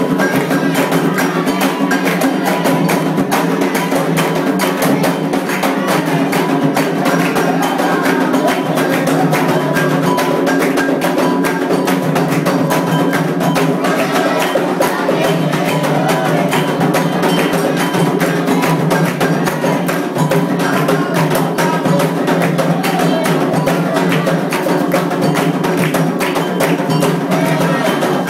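Candomblé ritual drumming: atabaque hand drums playing a dense, steady rhythm with a struck bell. The rhythm runs without a break.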